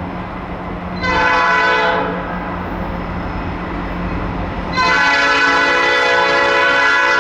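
Diesel locomotive air horn sounding over the rumble of the passing train: one short blast about a second in, then a long blast from about five seconds in.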